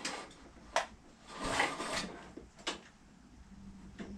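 Handling noises from working on a lawnmower: a few sharp clicks and a brief scraping rustle about a second and a half in.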